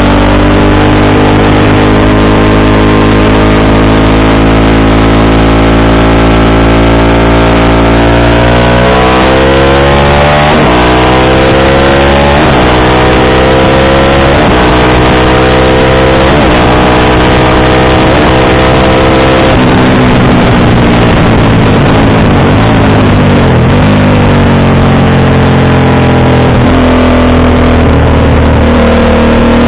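Motorcycle engine and exhaust running loudly under way. Starting about nine seconds in, the revs rise and drop back several times in quick succession, then fall away and climb again near the end.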